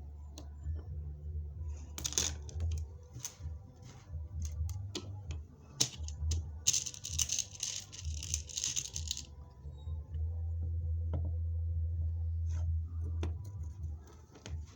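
Irregular sharp clicks and taps from a bead rivet machine and the beads being set, with a burst of rustling from about seven to nine seconds in, over a low steady hum.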